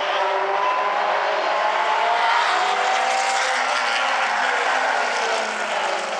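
Several late model stock car engines running together as the field races around the oval, the engine pitch shifting slowly as the cars come around.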